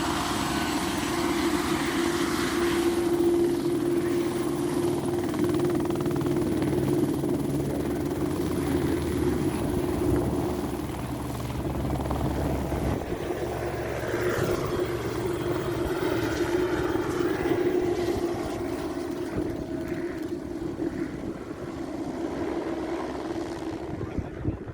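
Eurocopter AS350 helicopter running: steady turbine whine over the rotor blades' chop, growing somewhat fainter over the last few seconds.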